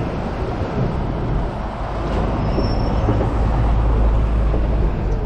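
Hong Kong tram running along its tracks: a steady rattle and rumble, with the low rumble growing heavier about three seconds in.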